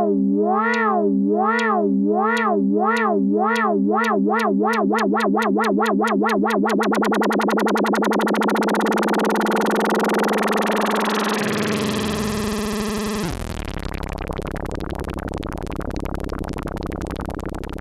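ARP Avatar analog synthesizer sounding two tones: one holds steady while the other wobbles up and down in pitch, the wobble speeding up until it blurs. About 11 seconds in, the pitch slides down, and a couple of seconds later the sound changes to a lower, buzzier drone.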